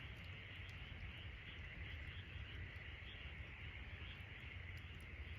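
Steady chorus of insects trilling and pulsing a few times a second, with faint sharp crackles from a wood campfire and a low rumble underneath.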